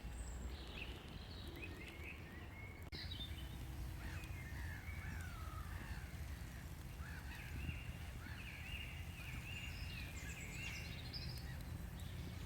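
Several songbirds singing, with overlapping chirps and short whistled phrases, over a steady low rumble.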